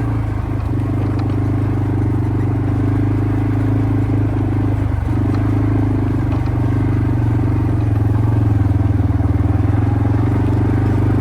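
Quad bike (ATV) engine running at a steady speed, getting a little louder about eight seconds in.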